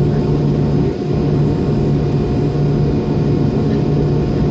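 Inside the rear cabin of an MD-90, its tail-mounted IAE V2500 jet engines running at low power: a steady, loud rumble with a constant low hum and a fainter higher tone, not rising.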